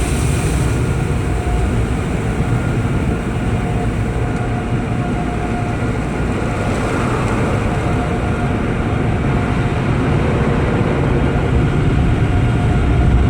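Automatic car wash equipment running, heard from inside the car's cabin: a steady, loud rumbling roar with a faint steady hum over it.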